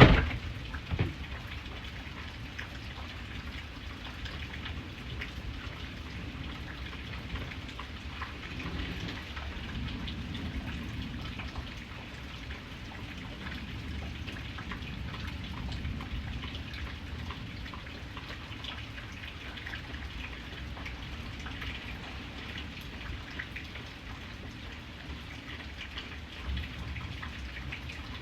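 Steady rain falling, with scattered drops spattering on a surface. A sharp, loud knock comes at the very start and a smaller one about a second in. A low rumble swells and fades between about eight and eleven seconds in.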